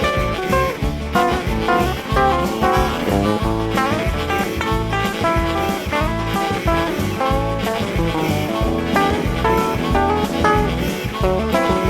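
Blues harmonica and guitar playing together over a steady rhythmic beat.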